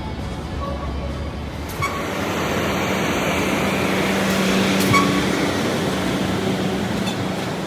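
A vehicle in motion: steady running noise with a faint hum, broken by a few short sharp clicks about two and five seconds in.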